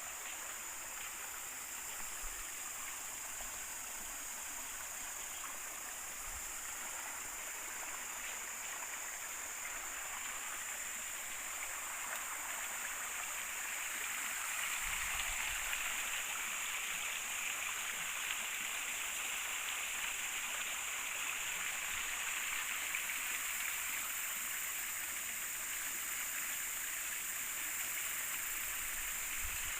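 Shallow river water rushing and gurgling steadily, growing a little louder about halfway through.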